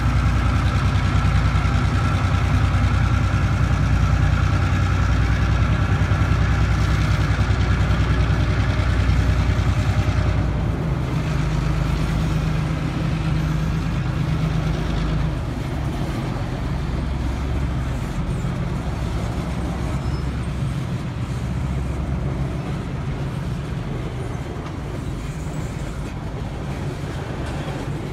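A diesel switcher locomotive's engine running with a steady low drone. About ten seconds in, this gives way to the rumble and rattle of freight cars rolling past on the rails.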